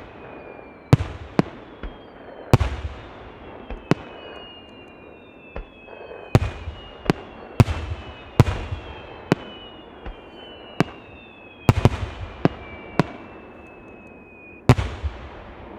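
Aerial firework shells bursting, about fifteen sharp booms at irregular intervals, each trailing off in echo. Thin high whistling tones slide slowly down in pitch between the bursts.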